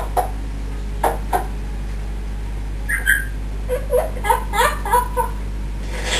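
Young African grey parrot chattering to itself: a few clicks, a short whistle about three seconds in, then a quick run of chirpy, mumbled babble.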